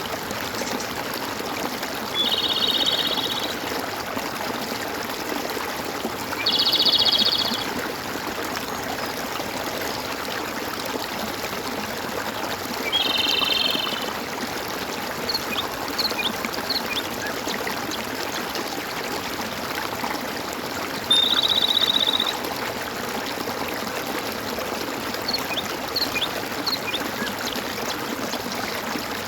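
Stream of water running and gurgling steadily, with a high trilled call repeated four times, each about a second long, and faint short chirps in between.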